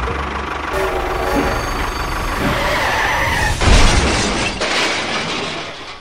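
A motor running steadily, then a loud crash about three and a half seconds in, after which the sound trails off.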